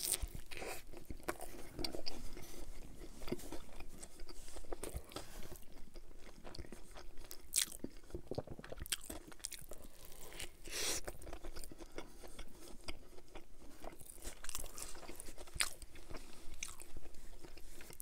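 Close-miked biting and chewing of a chicken sandwich: repeated irregular crunches of the bun and breaded chicken, with wet chewing between bites.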